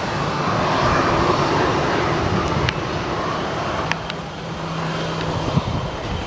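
CFM56-7B turbofan engines of a taxiing Boeing 737-800 running at low thrust: a steady jet rush that eases off a little about four seconds in.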